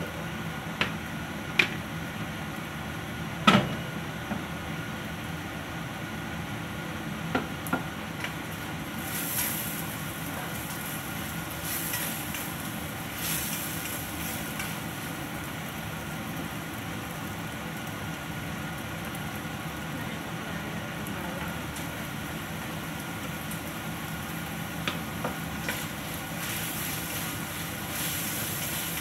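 Stainless steel wok and spatula clanking several times, the loudest knock about three and a half seconds in, then stirring with food sizzling in oil in the pan, the hiss swelling each time it is stirred, over a steady background hum.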